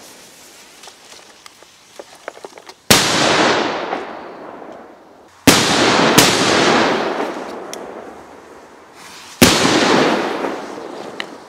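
Funke Trueno no.4 firecrackers exploding: four loud, sharp bangs, about three seconds in, two close together near the middle, and one near the end. Each bang rolls off in a long echo, and a few faint crackles come just before the first.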